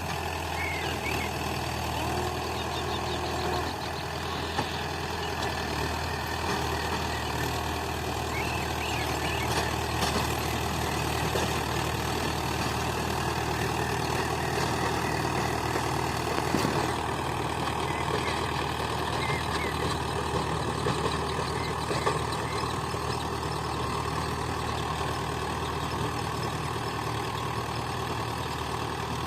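Mahindra 575 DI tractor's diesel engine running steadily under a 7-foot rotavator, with a few short knocks now and then.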